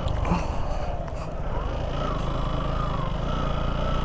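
Motorcycle engine running steadily at low speed, climbing a rough gravel hill road in a low gear, with a faint wavering high tone above the engine.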